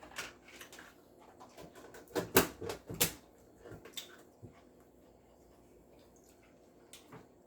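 Biting and chewing roasted corn on the cob: a string of short crisp crunches and wet mouth clicks, strongest about two to three seconds in, dying away after about four and a half seconds.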